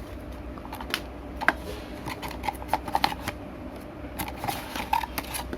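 Smartwatch box and its paper inserts being handled: irregular small clicks, taps and rustles of cardboard and paper.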